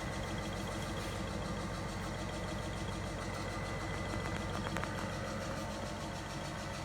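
Reece S2-ISBH industrial eyelet buttonhole machine running steadily with a fast, even mechanical rhythm, with a couple of sharp clicks a little under five seconds in.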